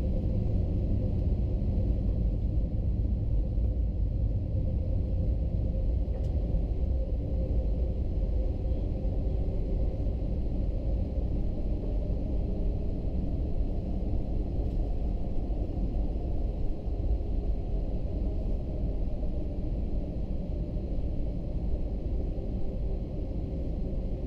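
Steady low rumble of an Airbus A321-200's engines and airflow heard inside the passenger cabin, with a faint steady hum over it.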